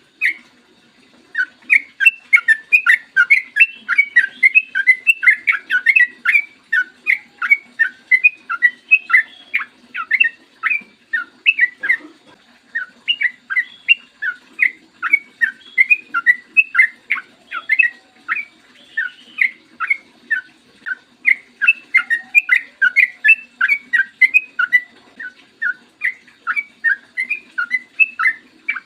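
Sooty-headed bulbul (trucukan) singing a long, fast run of short, sharp whistled notes, several a second, with brief pauses about a second in, near the middle and near the end.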